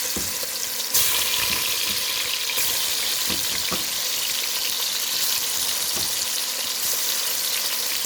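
Ghee spiced with garam masala frying in a pan: a steady sizzle that turns louder about a second in, with a few light knocks.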